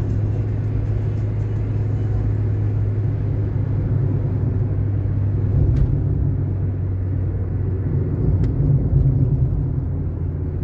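Car driving steadily along a paved road: a continuous low rumble of engine and tyres, with two faint ticks partway through.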